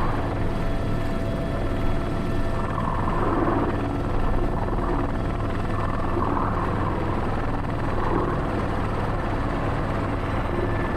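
Airbus H125 (AS350 B3) helicopter's turbine engine and main rotor running steadily while it hovers with a sling load, heard from the cockpit.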